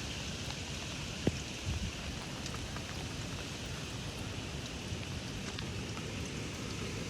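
Steady hiss of heavy rain in a gusty squall, with a few short low thumps a little over a second in.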